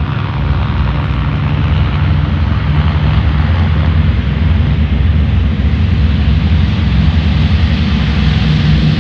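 Large military airplane's engines running loud and steady on the takeoff run, growing slightly louder.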